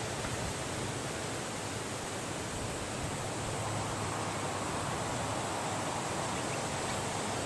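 Steady wind blowing, an even rushing that swells a little in the middle.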